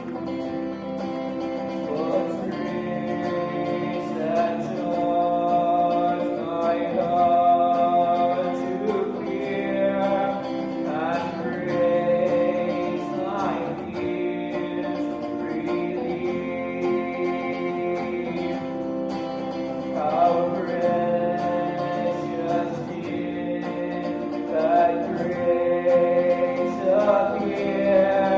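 A man sings a Christian worship song over guitar accompaniment. The voice comes in about two seconds in, over the guitar.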